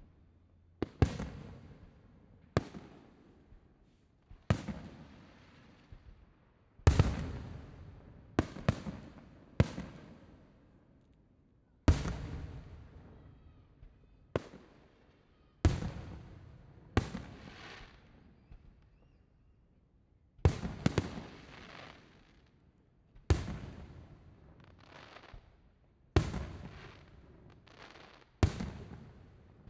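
Aerial fireworks shells bursting one after another, about twenty sharp bangs, every second or two and sometimes in quick pairs, each trailing off in a rumbling echo.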